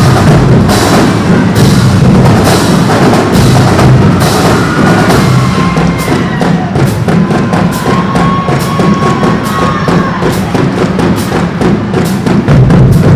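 Marching band drumline playing loud, driving cadences on bass drums and snares, with the strokes coming quicker near the end. A few held higher tones sound over the drums in the middle.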